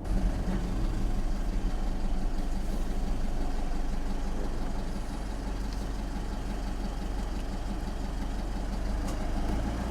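Car running, heard from inside the cabin: a steady low rumble with no change in pitch.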